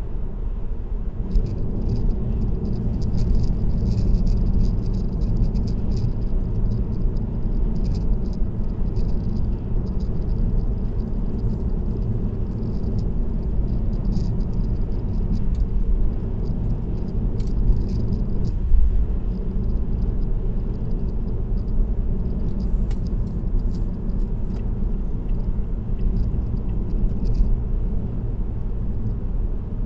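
Car driving at expressway speed, heard from inside the cabin: a steady low rumble of tyres on the road, with a light, irregular rattle of small clicks running through it.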